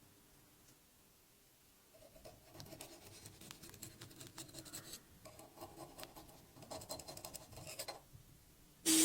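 Irregular light scratching strokes on a surface, starting about two seconds in. Just before the end a much louder steady sound with a hum starts suddenly.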